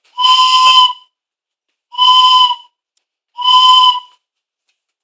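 Train whistle blown in three short blasts of under a second each. Each blast sounds a steady chord of several tones over a breathy hiss.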